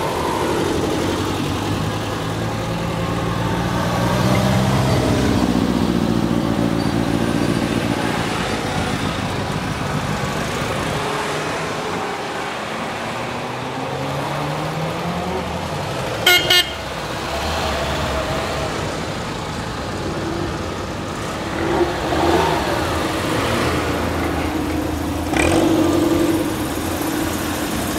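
Vintage NSU cars, Prinz and TT saloons among them, driving past one after another at low speed, their engines revving and gliding up and down in pitch as they pull away. A quick double horn toot sounds about two-thirds of the way through.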